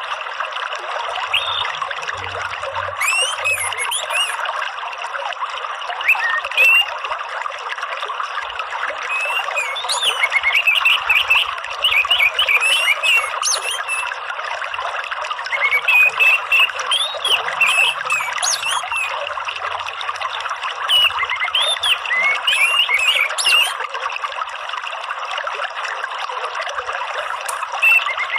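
Steady running water, with bursts of rapid chirping animal calls laid over it every few seconds.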